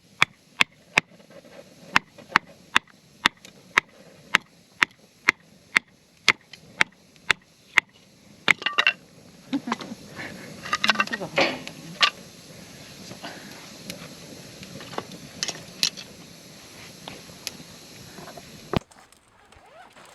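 Firewood being split by hand: a blade is driven into a log with steady sharp knocks, about two a second, for roughly the first eight seconds. Irregular clatter and knocking of the split wood follow.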